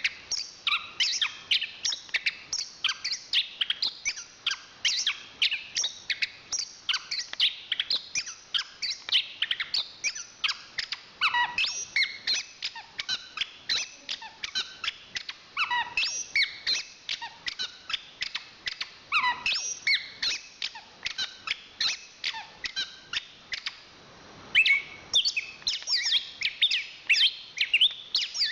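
Chestnut-capped thrush (anis kembang) singing a fast, continuous run of short, varied notes, with one brief pause near the end.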